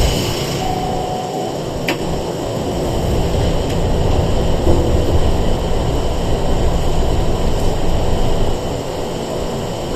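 Sangi Railway 101 series electric train running, heard inside the passenger car: a steady low rumble, with a single sharp click about two seconds in.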